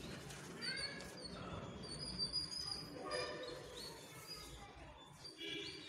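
Scattered faint bird calls and high chirps over low background room noise.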